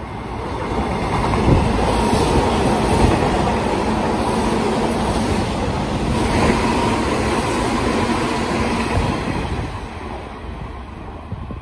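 Hanshin Railway 8000-series train passing through the station on the near track at speed, with wheels and running gear rumbling on the rails. The sound swells about half a second in, stays loud while the cars go by, and fades near the end as the last car clears.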